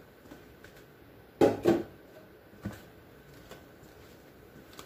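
Items being set down and shifted on a refrigerator shelf: two sharp knocks in quick succession about a second and a half in, then a softer knock a second later, with a few light clicks.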